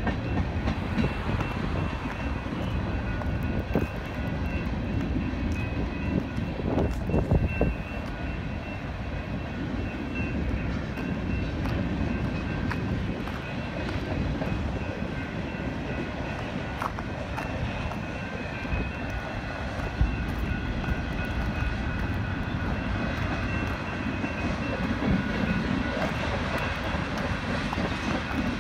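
Freight train rolling through a grade crossing: a steady rumble of the cars passing over the rails, with a few sharp knocks. The GS Type 2 and Type 3 crossing bells ring without a break over it.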